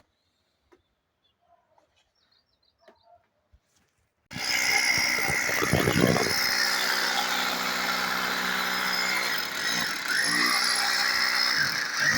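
Electric power drill starting abruptly about four seconds in and running steadily under load, its pitch dipping briefly near the end.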